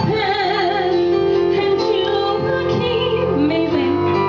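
A woman singing a long, wavering held note over musical accompaniment, the note stepping down near the end.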